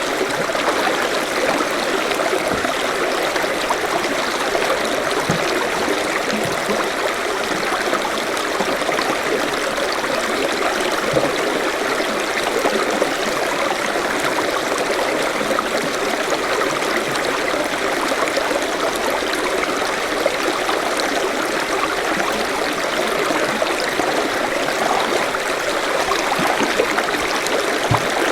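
Forest stream running steadily, water rushing and trickling over stones.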